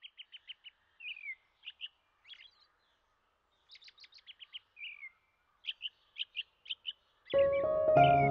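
Songbird singing: runs of quick high chirps and short rapid trills, with a few down-slurred whistled notes. Music comes in near the end.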